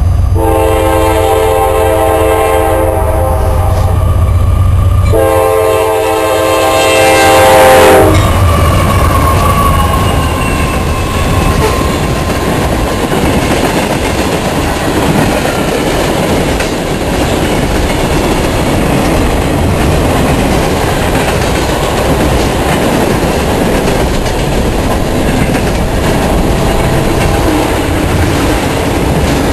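Freight locomotive horn sounding a chord of several notes in two long blasts, the second louder. Then the locomotives and the freight cars of the train rolling past, with wheels clicking over the rail joints.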